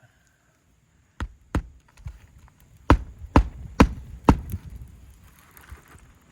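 Hammer driving roofing nails into an asphalt shingle: six sharp strikes, two spaced apart about a second in, then four in quick succession about half a second apart.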